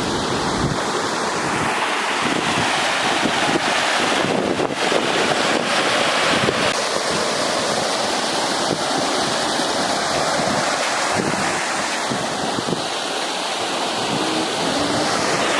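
Steady rushing of a stream's flowing water, with wind buffeting the microphone.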